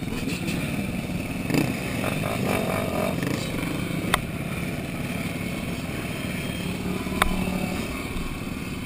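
Dirt bike engine running steadily under way, with a few sharp clicks.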